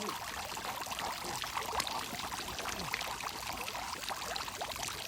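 Water jets of a splash pad spraying and pattering steadily onto the pad.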